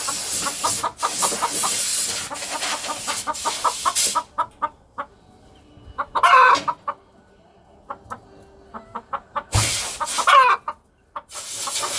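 Korean native chickens clucking in rapid short runs, with a loud hissing noise over the first four seconds and again near the end. Two louder, pitch-bending calls stand out, about six and ten seconds in.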